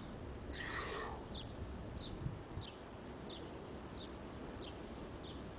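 A bird repeating a short, falling chirp about every two-thirds of a second over steady outdoor background noise, with a louder, longer call about half a second in.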